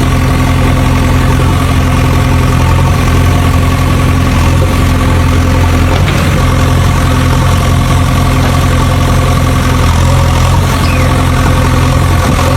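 Tractor engine idling: a loud, steady, even low drone that does not change.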